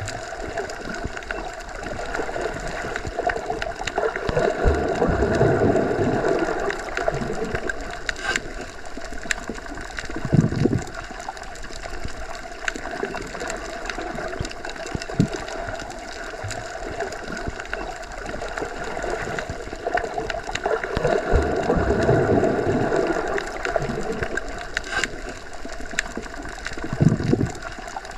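Underwater ambience: a muffled, steady water rush with a faint ringing hum, slowly swelling and fading twice. Brief low surges come about ten seconds in and near the end, with scattered faint clicks.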